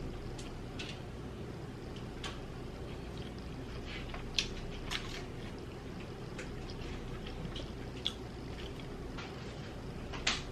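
A person eating close to the microphone: short wet mouth clicks and smacks of chewing, a few sharper ones standing out, over a steady low background hum.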